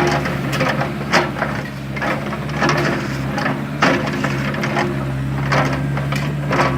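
Excavator's diesel engine running steadily, with irregular crunching knocks and scrapes as it digs through soil and rock.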